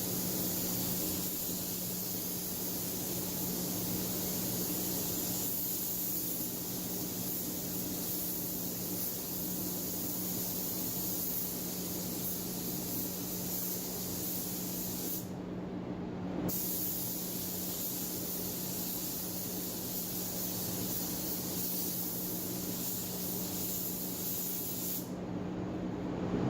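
DeVilbiss GTI Pro Lite HVLP spray gun hissing steadily as it sprays paint, the hiss breaking off briefly twice, about two thirds through and again near the end. A steady low hum runs underneath.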